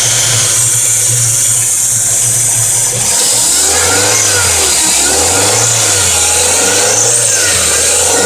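Fiat Palio Fire engine idling steadily, then revved up and down several times from about three seconds in. The running carries a strange engine noise that a new timing belt and tensioner did not cure; replacing the oil pump fixed it.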